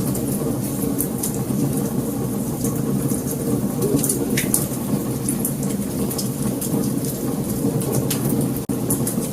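Wood fire burning: a steady low rumble under frequent small crackles and pops, cutting out for an instant near the end.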